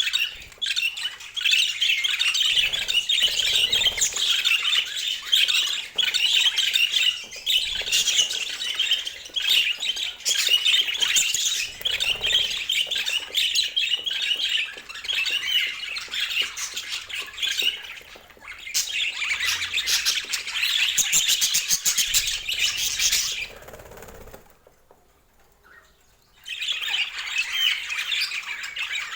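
Budgerigars chattering steadily, a busy mix of chirps, warbles and squawks. The chatter breaks off for about two seconds near the end, then starts again.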